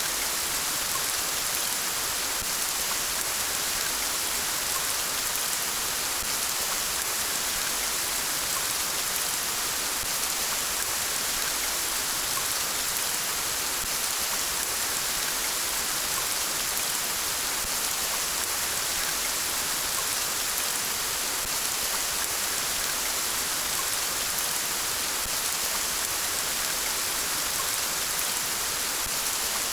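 Steady rain falling on surfaces, an even hiss with no breaks or thunder.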